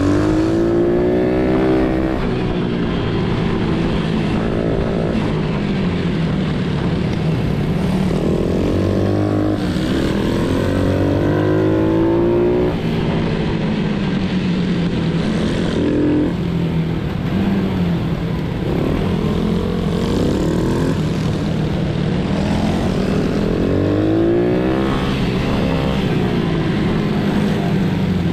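Pit bike engines racing, the engine pitch climbing again and again as the bikes accelerate hard, over a steady engine drone.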